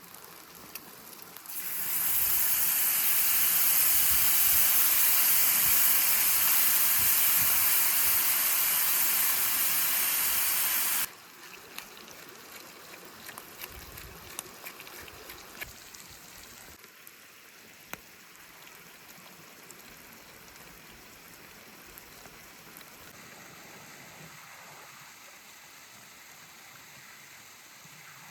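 Loud steady hiss from camp cooking over the fire, starting about two seconds in and cutting off suddenly about eleven seconds in. Afterwards a much quieter hiss with scattered small crackles.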